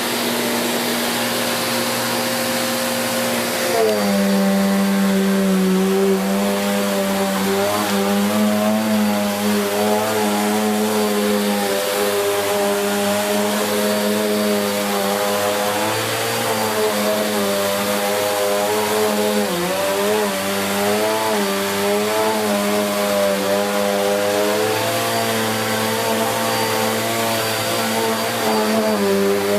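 Bissell Cleanview Plus 1900W bagless upright vacuum cleaner running with a steady motor whine. About four seconds in its note drops slightly and gets a little louder, then wavers up and down.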